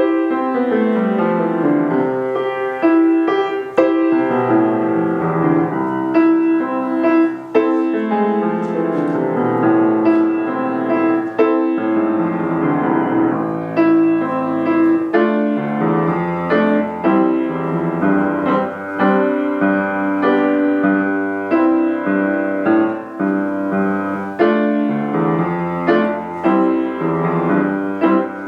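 Instrumental keyboard music, a melody over held chords, played as the prelude to a church service.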